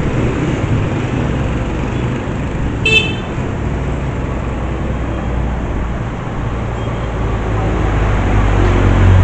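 Road vehicle running with a steady low rumble, and a short high horn toot about three seconds in; the rumble grows louder near the end.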